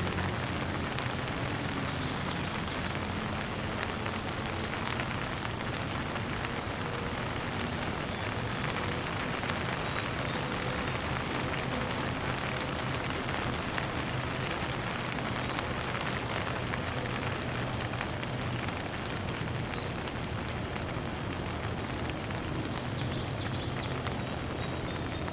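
Steady rain falling, an even hiss of drops on surfaces with a few sharper drips now and then.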